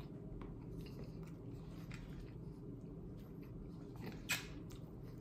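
Faint chewing of ramen noodles over a steady low hum, with a sharp click about four seconds in as the wooden chopsticks knock against the noodle cup.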